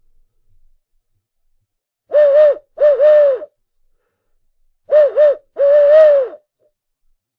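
Owl hooting in two phrases: each phrase opens with a couple of quick hoots and runs into longer ones, and the second phrase ends on a long hoot that drops in pitch at its close.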